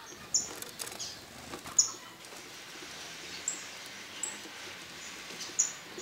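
Short, high-pitched bird chirps, about five single notes spaced one to two seconds apart, over a faint steady hiss, with a few soft clicks in the first second.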